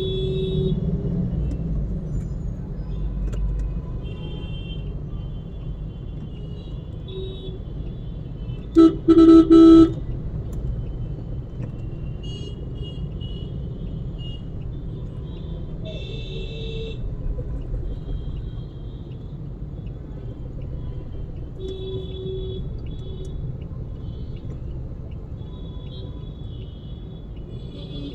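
Car horn honked twice, a short tap then a blast of about a second, about nine seconds in, over steady road and engine rumble in rush-hour traffic. Fainter horns from surrounding traffic sound now and then.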